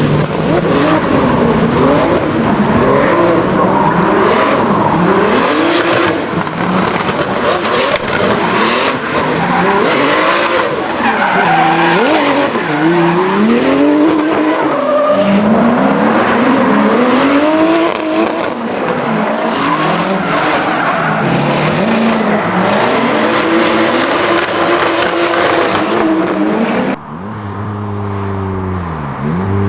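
Modified Nissan Silvia drifting: the engine revs up and down over and over while the tyres squeal. Near the end the sound cuts abruptly to a car engine revving at a lower pitch, without the tyre squeal.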